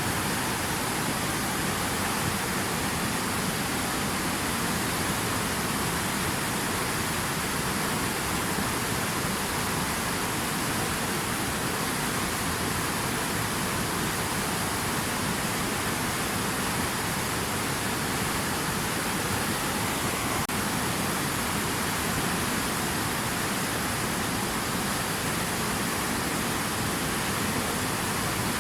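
Steady rushing water: an even, unbroken hiss with no distinct splashes or drops.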